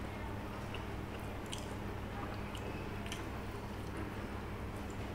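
A person chewing a mouthful of rice and fish curry eaten by hand, with small wet mouth clicks and smacks scattered through it, over a steady low hum.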